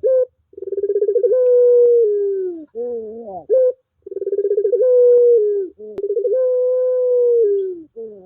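Puter pelung turtle dove cooing: three long, drawn-out coos, each opening with a quick fluttering pulse and then holding a steady pitch. Between the first two comes a run of short rising notes.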